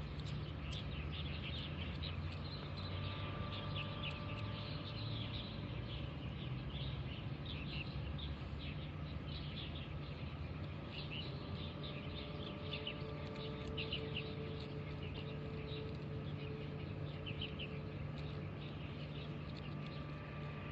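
Small birds chirping steadily in the background, many short quick chirps overlapping, over a low steady hum.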